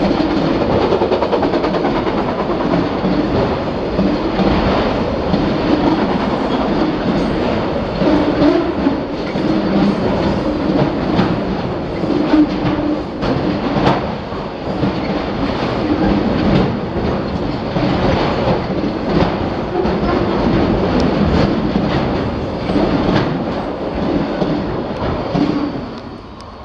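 Autorack freight cars rolling past, wheels clattering over rail joints with frequent sharp clicks and knocks. The sound fades near the end.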